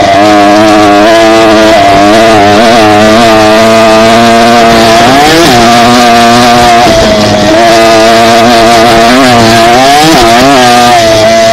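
Dirt bike engine running loudly at a mostly steady pitch while riding. The revs dip and climb back about five seconds in and again near the end.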